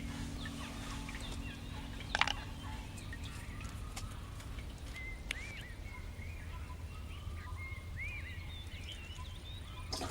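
Birds calling outdoors: repeated short, arched chirps over a steady low rumble, with a sharp knock about two seconds in.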